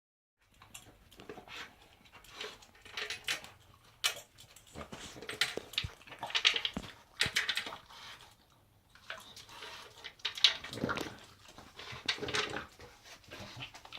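A pug sniffing and chewing in irregular bursts as it eats from a plastic maze feeder bowl, with sharp clicks of food and teeth against the bowl.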